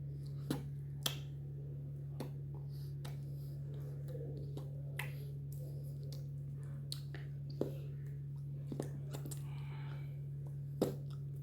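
Irregular sharp taps and clicks of hands striking together during signing, the loudest near the end, over a steady low electrical hum.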